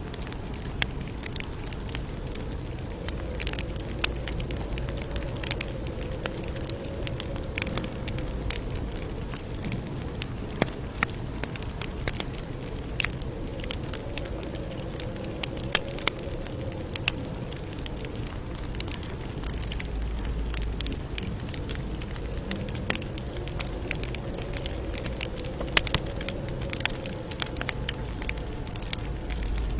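Campfire burning, with steady crackling and frequent sharp pops of wood over a low rush of flame.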